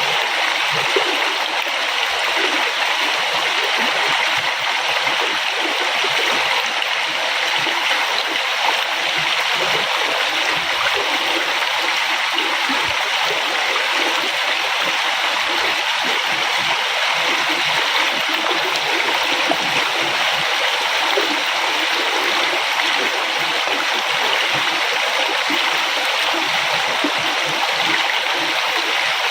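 River water flowing and splashing steadily, a continuous rushing with small gurgles.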